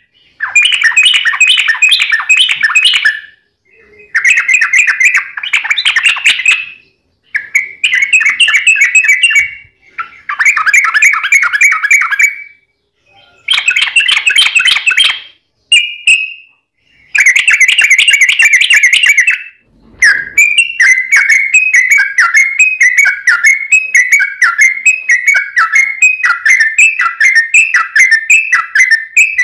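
Yellow-vented bulbul (trucukan) song: loud, fast chattering phrases a couple of seconds long, separated by short pauses. About two-thirds of the way in they give way to a long unbroken run of quick repeated notes, the rolling 'ropel panjang' trill used to lure other trucukan into answering.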